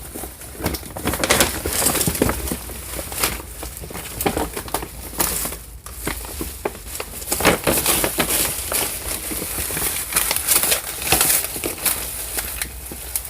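Rustling, crinkling handling noise close to the microphone, full of small irregular clicks and crackles.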